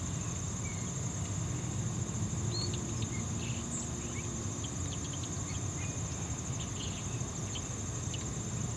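A steady, high-pitched insect chorus trilling without a break, with a few short bird chirps scattered through it over a low, steady outdoor rumble.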